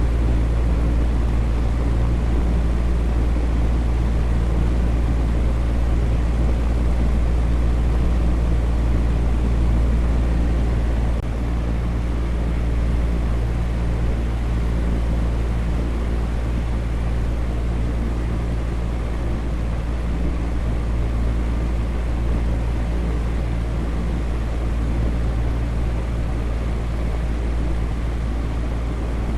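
Electric fan running steadily: a constant rush of air over a low motor hum. The level dips slightly about eleven seconds in, then holds even.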